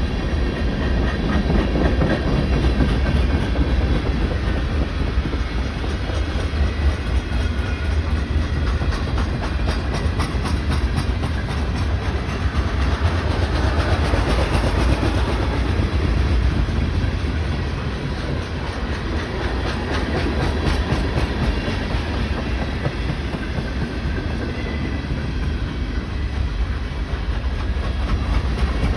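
A BNSF train's cars rolling steadily past with a deep rumble and the clickety-clack of wheels over the rail joints.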